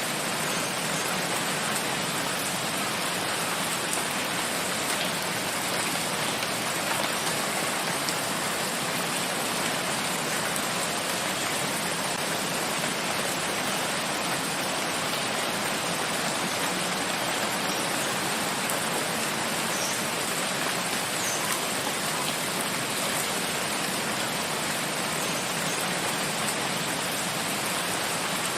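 Steady rain falling on forest foliage, an even hiss of drops that holds at one level throughout.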